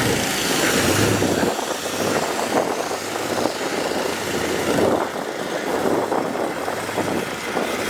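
Steady outdoor noise of motor vehicles running, with no clear revving.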